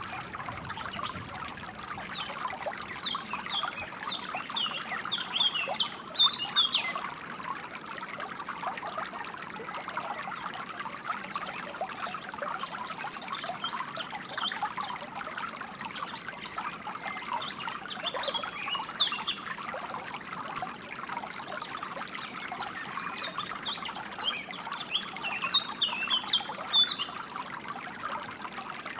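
Small stream of water trickling and burbling steadily. Three spells of quick, high songbird chirping sound over it, the loudest near the start and near the end.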